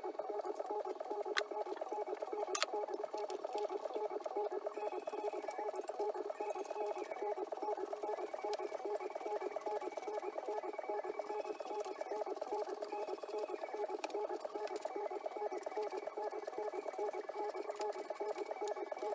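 Radio sound from a Technics SA-300K stereo receiver: a tinny, narrow, steadily fluttering sound with faint whistle tones coming and going in the background.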